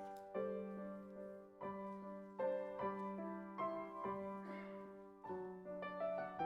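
Piano playing a slow, gentle passage of chords, a new chord struck every half second to a second over a held low note.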